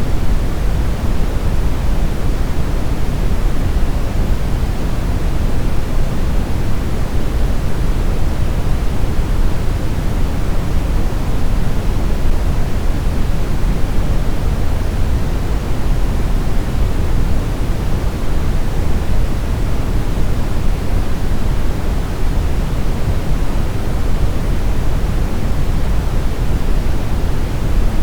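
Steady brown noise: an even, unbroken hiss-and-rumble with most of its energy deep in the bass, smoothed and unchanging.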